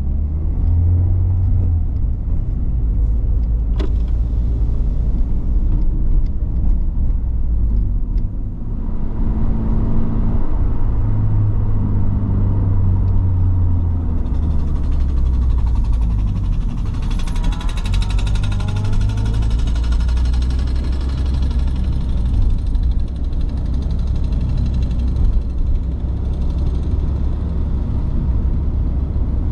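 Toyota GR86 / Subaru BRZ 2.4-litre flat-four running through a COLBASSO Ti-R Plus straight-through titanium single-exit exhaust while being driven. The engine note steps up and down in pitch several times, with revs climbing and the sound turning harsher from about fourteen seconds in.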